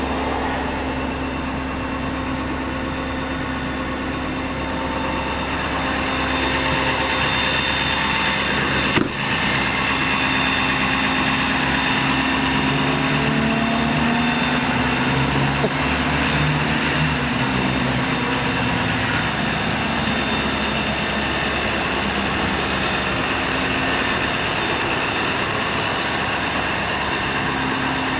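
Ford Powerstroke diesel engine of a bucket truck running steadily, with several high steady whining tones over the drone. A single sharp knock comes about nine seconds in, and some tones slide in pitch through the middle.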